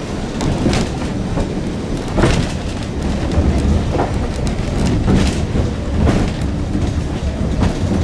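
Heritage train carriage rolling slowly along the rails: a steady low rumble from the wheels and running gear, broken by irregular knocks and clanks every second or so.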